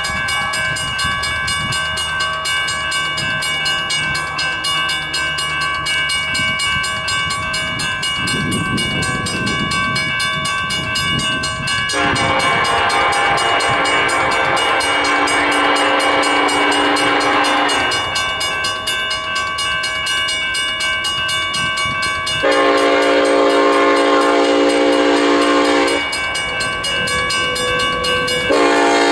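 Union Pacific EMD SD70ACe locomotive's air horn sounding a long blast of about six seconds and then one of about three and a half seconds, with a third blast starting near the end, over the rumble of the approaching freight train.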